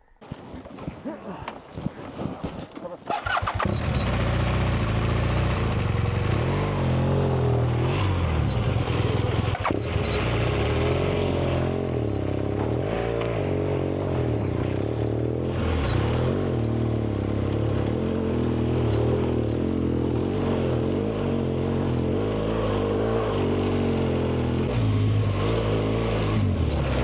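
BMW GS adventure motorcycle's boxer-twin engine being ridden. The sound builds unevenly over the first three seconds, then runs loud and steady with small rises and falls in engine speed.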